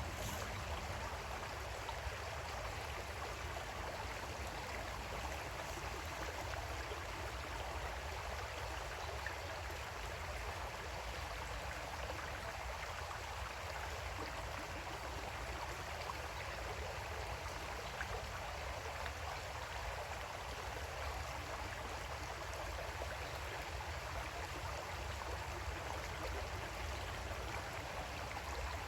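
Creek water flowing steadily over rocks, a constant babbling rush.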